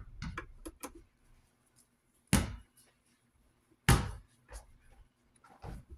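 Objects being handled and set down on a hard surface: a few light clicks, then two loud sharp knocks and some smaller ones.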